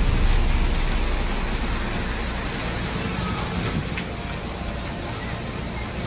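Steady hiss of heavy rain, with a few faint ticks.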